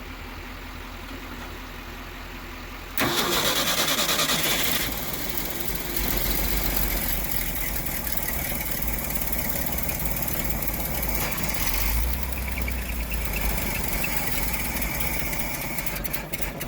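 The Ford industrial 240 inline-six in a 1966 F500 truck fires up about three seconds in, after a steady low hum, and keeps running loudly and unevenly on the fuel it is being given.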